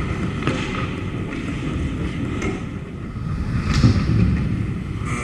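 Ice hockey game on the rink: a steady low rumble of rink noise with a few sharp knocks, about half a second in, near two and a half seconds and again near four seconds.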